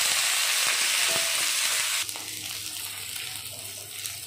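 Cut okra sizzling in hot oil in a frying pan, a dense loud sizzle that drops suddenly to a softer one about two seconds in, with a faint low hum and a few small clicks after the drop.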